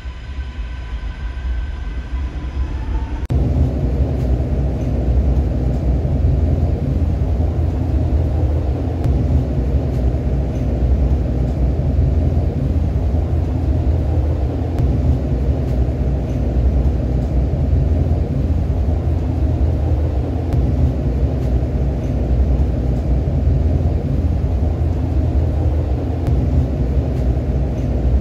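REM light-metro train (Alstom Metropolis) running along its elevated track: a steady low rumble of wheels on rail. It sets in abruptly about three seconds in, after a quieter start with a few faint steady tones.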